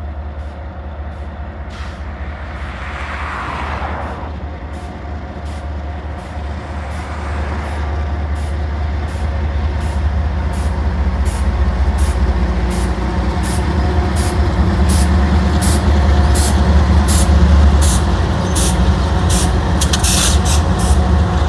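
Diesel locomotives of a CN freight train running, a deep steady engine rumble growing louder as the train approaches. Over it comes a regular clicking that speeds up, and a brief hiss near the end.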